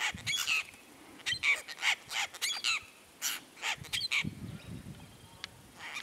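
Apostle birds calling: short squawking calls from several birds in quick succession, thinning out and growing fainter after about four seconds.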